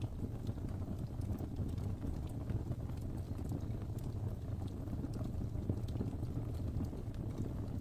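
Wood fire burning in a fireplace: a steady low rumble of flames with many small, irregular crackles and pops from the burning logs.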